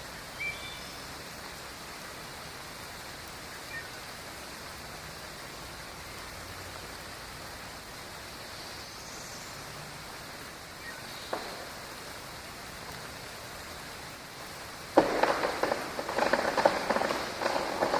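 Steady rain falling, with a few faint bird chirps near the start. About fifteen seconds in, a sudden loud crackling and crashing starts and continues: a tree falling.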